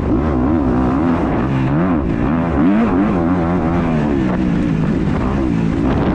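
Motocross dirt bike engine heard from on board, its revs rising and falling again and again as the rider works the throttle around the track.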